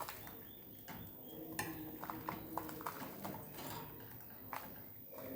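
Pet budgerigars making small sounds: a quick run of light clicks and taps, like beaks or claws on a hard surface, gathered in the middle of the clip, with soft chirps among them.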